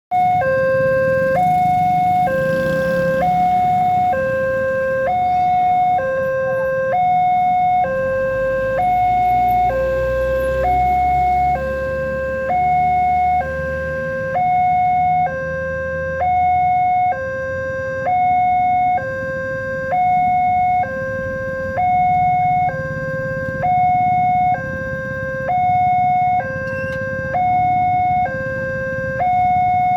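Railway level-crossing warning alarm sounding: an electronic two-tone signal alternating steadily between a lower and a higher note, each held a little under a second. A low rumble swells about eight seconds in and fades by about sixteen seconds.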